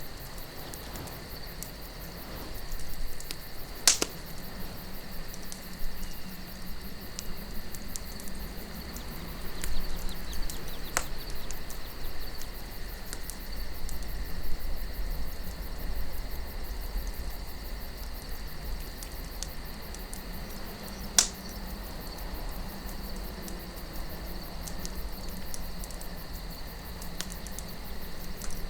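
Wood campfire crackling with scattered sharp pops, the loudest about four seconds in and another about two-thirds of the way through, over a low wind rumble and the steady chirring of crickets.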